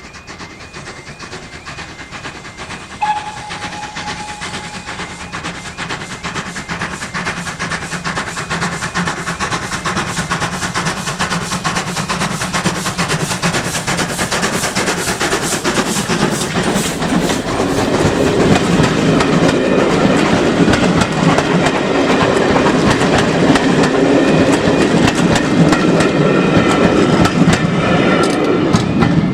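Steam-hauled train approaching and passing close by, its wheels clacking over the rail joints. The sound grows steadily louder as it comes near, with one short high tone about three seconds in.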